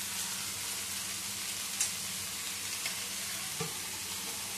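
Chopped red amaranth leaves sizzling in hot mustard oil in a wok as more are added, a steady frying hiss with a couple of light clicks.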